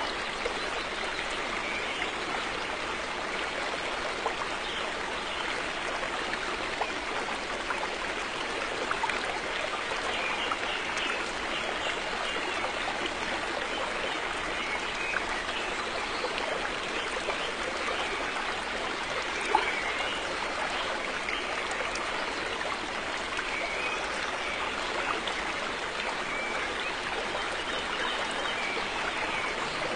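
River water flowing steadily over rocks, a continuous rushing babble with small splashes and trickles mixed in.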